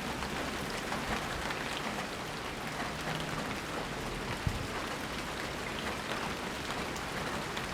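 Steady rain falling, an even hiss with many small drop ticks, and one soft low thump about halfway through.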